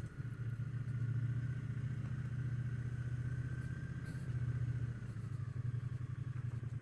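Triumph Bonneville T120's parallel-twin engine running steadily as the motorcycle rides along, with a slight easing of the engine note about five seconds in.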